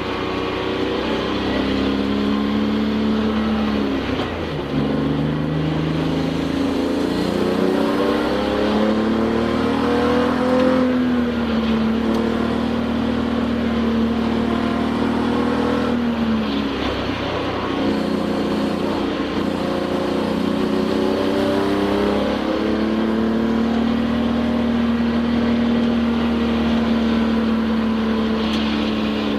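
Touring-class race car engine heard from inside the cabin, revs climbing and falling back with gear changes, holding steady between them.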